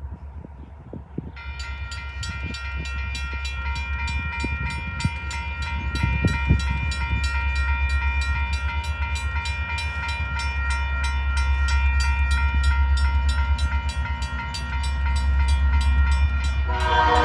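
A train's low rumble, with a bell ringing in rapid repeated strokes from about a second in. The horn starts sounding loudly just before the end.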